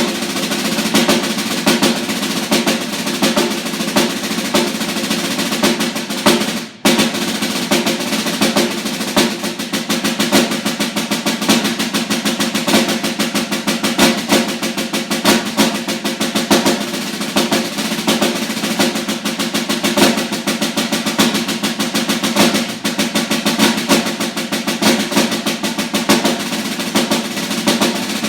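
Snare drum played solo: fast, dense strokes and rolls, with one brief break about seven seconds in.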